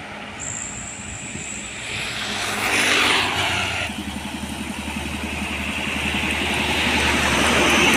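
Road traffic passing close by. One vehicle goes past about three seconds in, its pitch dropping as it goes. Then a heavy truck's engine, with a low, even pulse, grows louder as it approaches.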